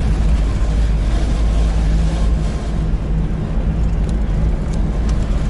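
A 4x4 jeep's engine runs steadily while driving, a continuous low drone mixed with road and wind noise. A few light clicks come near the end.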